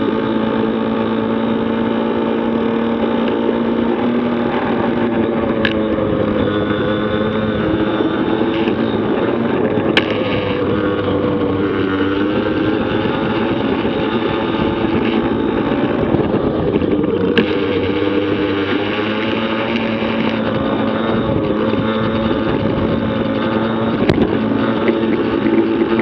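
Yamaha PW50 minibikes' small two-stroke single-cylinder engines running hard, their revs rising and falling, with a dip about twelve seconds in. Four short sharp clicks cut through.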